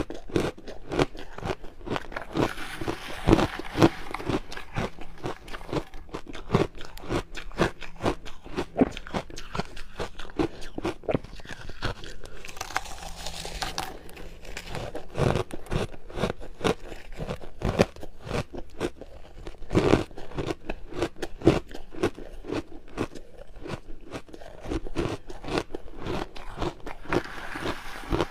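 Ice being bitten and chewed close to the microphone: a steady run of dense, crackling crunches with a few louder bites.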